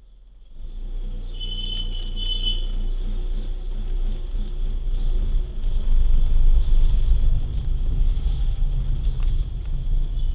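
Car driving on the road: a low rumble of tyres and engine that starts suddenly and grows louder. A brief high tone sounds over it a second or so in.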